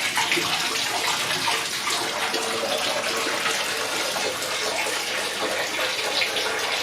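Water running steadily into a Fluval Vicenza 260 aquarium as it is filled for a leak test.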